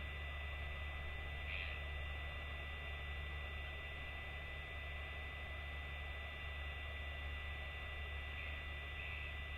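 Steady low electrical hum under a faint even hiss, with a thin high steady tone. Faint short high chirps come about one and a half seconds in and twice near the end.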